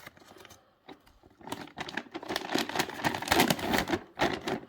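Handling noises: irregular rustling and clattering of farm supplies being moved about, thickest from about a second and a half in to near the end.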